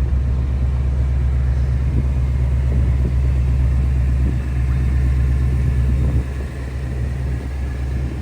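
Ford Mustang RTR's 5.0-litre V8 idling with a steady, deep rumble, which drops in level a little after six seconds in.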